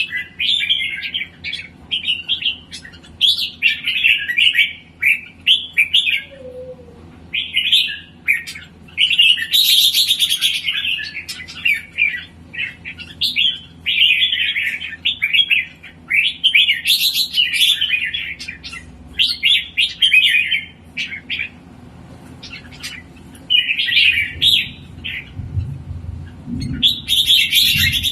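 A songbird singing in full form: busy phrases of quick chirps and trills, one after another with short breaks.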